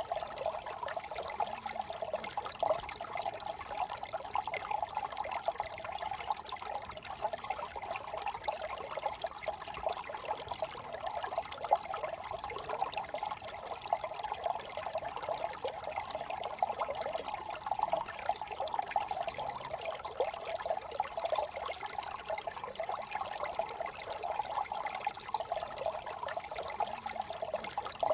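Small brook trickling and babbling over stones, a steady flow of many small splashes and gurgles.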